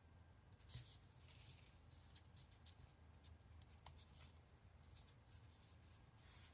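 Faint rustling and scratching of a vinyl wrap sheet being slid and repositioned by hand against a tumbler, in short irregular bursts, over a low steady hum.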